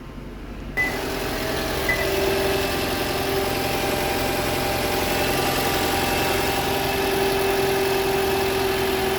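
Toyota Camry engine idling steadily after being started with its repaired starter motor, fitted with new carbon brushes. The engine sound comes in suddenly about a second in.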